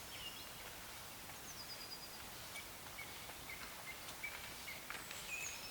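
Faint, thin bird calls: short high whistled notes scattered through a quiet background hiss, with a run of several similar notes at one pitch in the middle and a falling note near the end.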